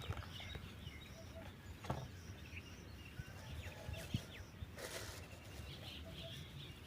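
Faint rural background with small birds chirping now and then, and a couple of soft knocks.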